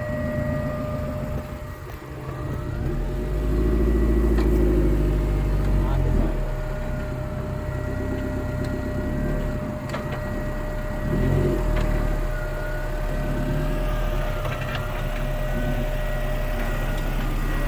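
Off-road Suzuki four-wheel drive's engine working under load as it crawls over rough track, revving up in two surges, about three seconds in and again about eleven seconds in.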